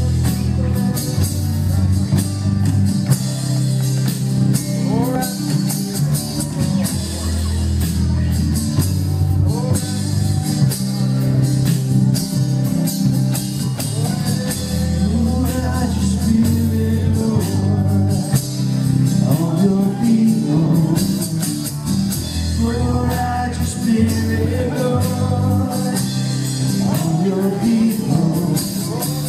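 Live worship band playing a praise song, with drums, electric guitar and keyboards, and voices singing over it from about four seconds in.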